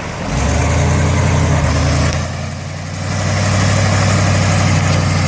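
1979 Ford Bronco's 460 big-block V8 pulling under throttle through a creek crossing. The engine comes up about a third of a second in, eases off briefly around the two-second mark, then pulls hard again.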